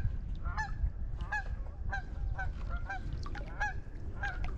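A flock of geese honking, many short calls overlapping at about two to three a second.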